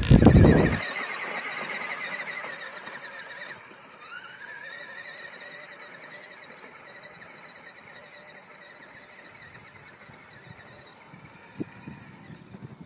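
A small motorcycle engine whines at a distance, with a wavering high pitch. About four seconds in it revs up, rising in pitch, and then it slowly fades. A short low rumble ends abruptly about a second in.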